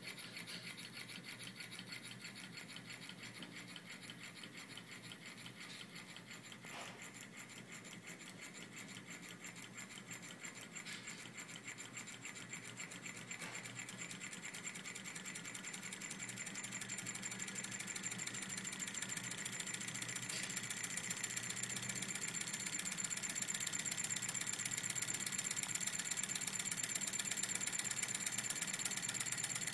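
Small Stirling engine running, a fast, steady mechanical rasping rattle with a thin high whine. It grows gradually louder over the second half.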